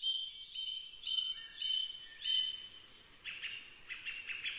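Birds singing: a run of high whistled notes about twice a second, then quicker clusters of short chirps in the last half.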